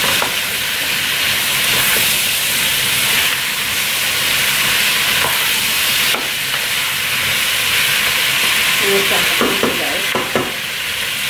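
Pumpkin cubes sizzling as they fry in a stainless steel pot, stirred with a wooden spatula. The spatula knocks and scrapes against the pot now and then, most near the end.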